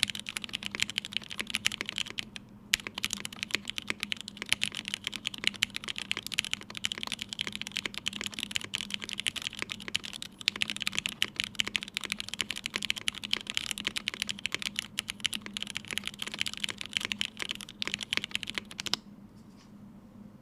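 Fast, continuous typing on a mechanical keyboard with lubed and filmed Hyperglide Red linear switches in an aluminium plate and GMK Pixel ABS keycaps, broken by two brief pauses. The typing stops about a second before the end.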